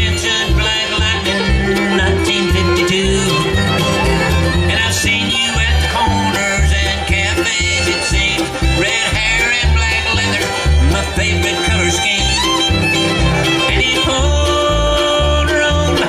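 Bluegrass band playing an instrumental passage, fiddle and banjo out front over acoustic guitar and a steady bass beat.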